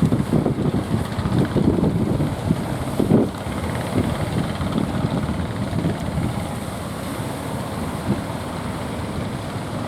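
Strong wind buffeting the microphone: a low, irregular rumble that is gustier in the first three seconds and steadier after.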